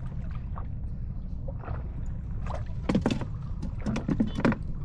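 Steady low rumble on a small boat on the water, with a few sharp splashing or knocking sounds about three seconds in and again near the end.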